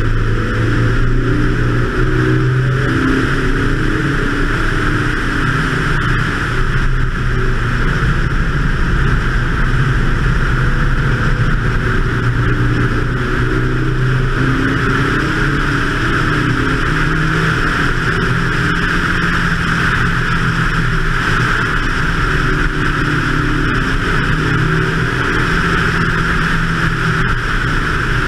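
BMW 2002 race car's engine running hard at track speed, its note climbing and then dropping back several times as it works up through and down through the gears. A steady rush of wind over the car runs under it.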